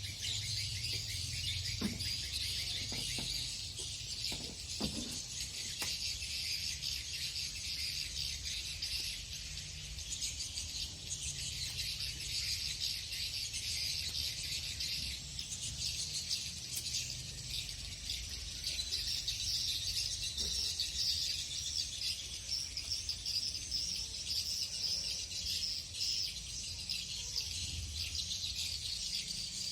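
Swiftlets twittering: a dense, unbroken chatter of high chirps from many birds, over a steady low rumble.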